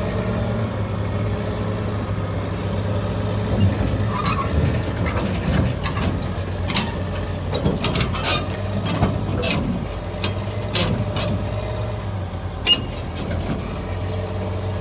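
Diesel engine idling steadily under a run of sharp metal clanks and rattles, typical of tie-down chains and binders being released from a lowboy trailer, with one loud clank near the end.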